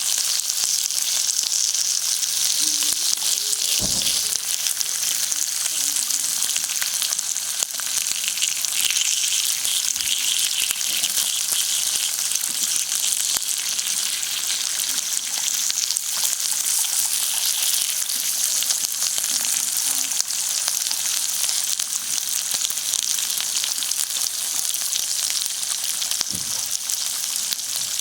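Steak sizzling on hot lava stones over a wood fire: a steady, crackling hiss. Two soft knocks come through, one a few seconds in and one near the end.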